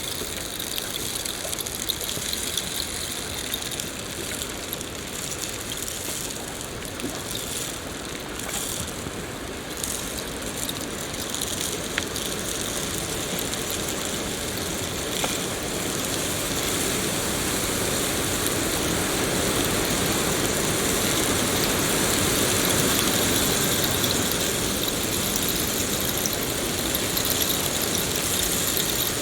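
Rain falling steadily, a dense even hiss with a few scattered drop clicks, growing slightly louder about halfway through.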